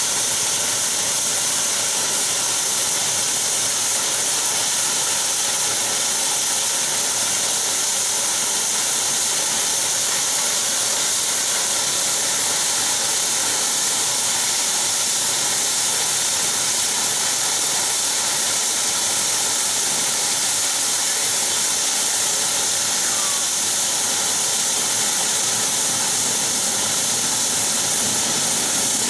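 Saab 340B's General Electric CT7 turboprop engines running steadily, a high turbine whine over an even hiss.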